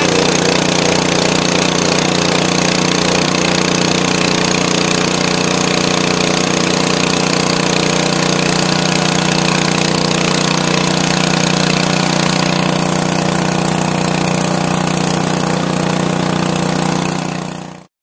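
Small single-cylinder Craftsman garden-machine engine running steadily just after a cold start on choke. It cuts off suddenly near the end.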